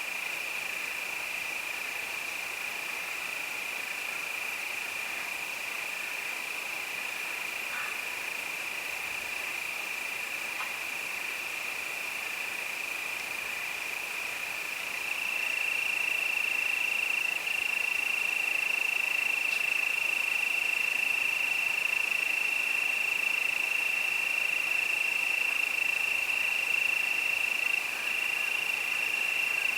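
Crickets singing in a continuous high trill, which becomes louder and slightly higher about halfway through.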